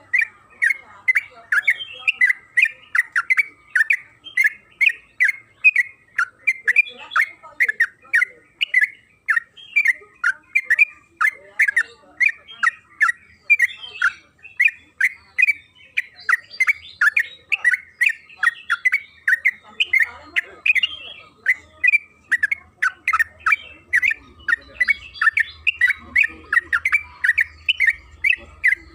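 Yellow-vented bulbul (trucukan) singing a long, unbroken run of short, loud chattering notes, about three a second, the drawn-out 'ropel' song.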